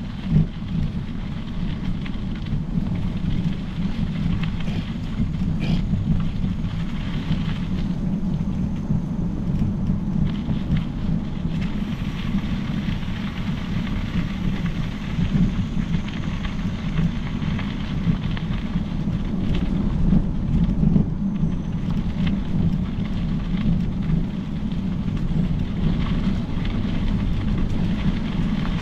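Steady rumbling rush of riding a Specialized Epic Pro mountain bike on a trail: tyres rolling and air rushing over the microphone, with a few light knocks from the bike over bumps.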